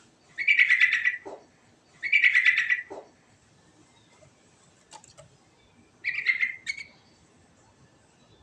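Yellow-vented bulbul (trucukan) singing: three short, bubbly, warbling phrases, the first two close together and the third a few seconds later.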